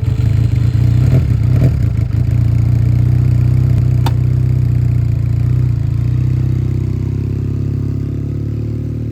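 Benelli Leoncino 500's parallel-twin engine idling steadily, a deep even rumble, with one light click about four seconds in.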